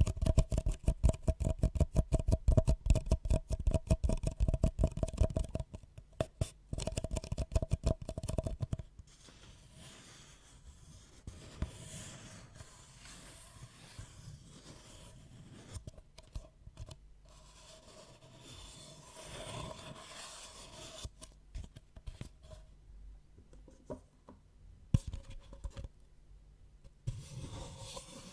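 Close-miked ASMR trigger sounds: a fast run of sharp clicks or taps for the first nine seconds or so, then quieter scraping and scratching with a few scattered clicks.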